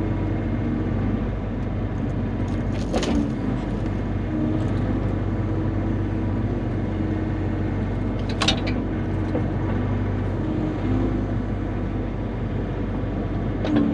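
Bobcat E35 mini excavator's diesel engine running steadily while working the hydraulics to handle spruce logs, its pitch shifting slightly as the load changes. Two sharp knocks stand out, about three seconds in and again past the middle.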